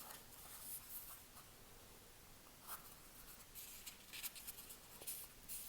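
Faint rustling and scraping of a square sheet of origami paper being folded corner to corner, with fingers sliding along it to press the diagonal crease, in short scattered strokes.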